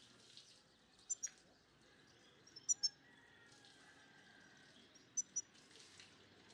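Short high chirps from a small bird, in pairs, three times, over a faint steady hiss.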